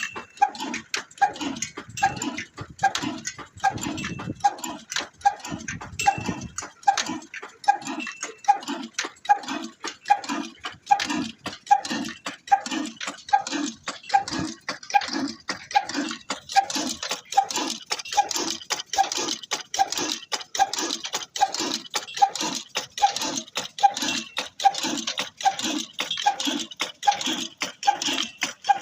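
Old Ruston stationary engine running slowly and steadily, its exhaust beats coming about twice a second with sharp mechanical clicking between them. A hiss grows louder about halfway through.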